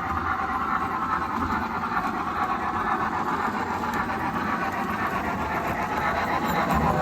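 HO scale model train running on the layout's track, a steady, unbroken running sound.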